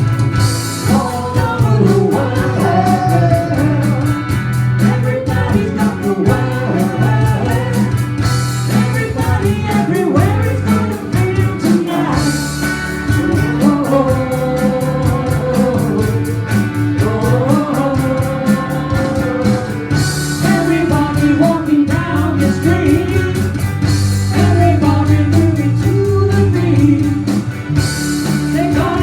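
Live rock band playing: a steady drum beat and bass under a bending melodic lead line, with cymbal crashes every several seconds.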